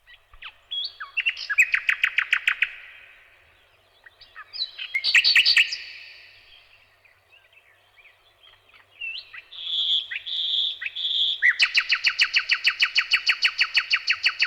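Bird song: three bouts of fast trilled phrases, with three short whistled notes before the last and longest trill.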